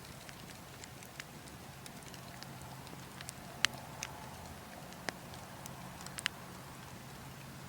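Burning logs crackling, with scattered sharp pops, the loudest about three and a half seconds in, over a steady low wind rumble.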